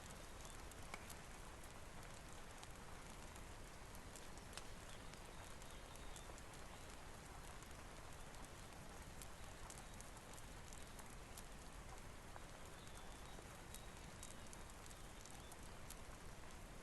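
Faint, steady rain hiss with a wood fire crackling in scattered sharp pops and clicks.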